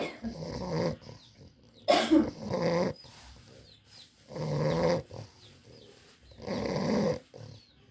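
English bulldog snoring: four loud snores about two seconds apart, each lasting under a second.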